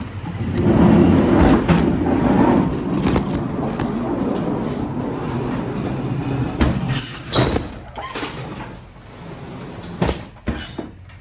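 Pallet jack rumbling and rattling as it is rolled across the trailer floor with a load for several seconds, then a few sharp knocks and clanks as it stops.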